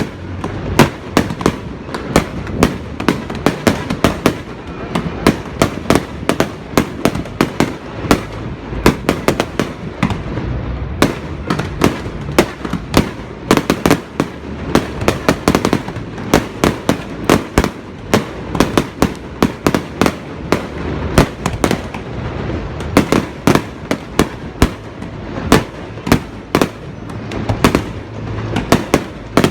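Fireworks display: a continuous barrage of sharp bangs and crackles, several a second, over a steady low rumble.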